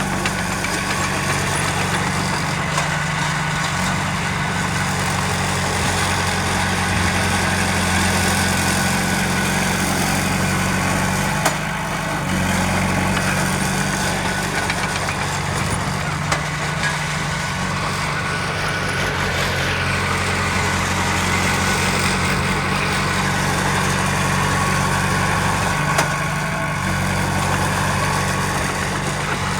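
Heavy diesel engine of earthmoving machinery running steadily at an even, low pitch, with a couple of brief knocks.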